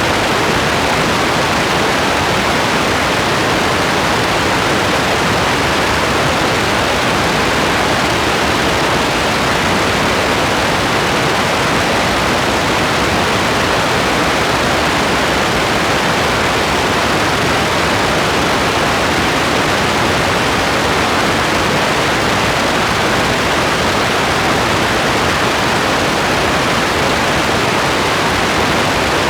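Steady, dense rain: an even, unbroken hiss with no separate drops standing out.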